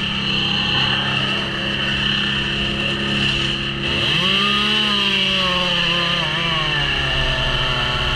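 Gasoline chainsaw running steadily, then revved up about four seconds in, its pitch wavering before it drops back.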